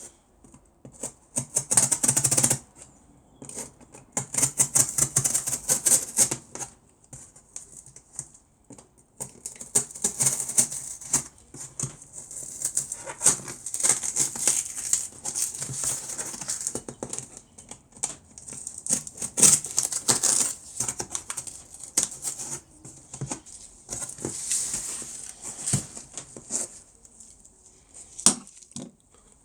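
Knife cutting through the side of a corrugated cardboard box: bursts of scratchy, crackling sawing strokes with short pauses between them, as a hand-hold slot is cut out.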